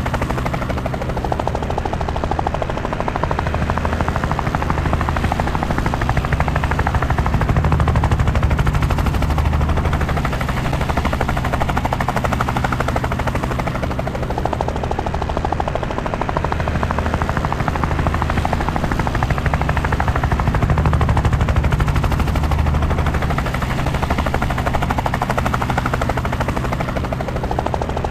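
Helicopter in flight: a steady rapid rotor chop over a low engine drone, swelling and easing every several seconds.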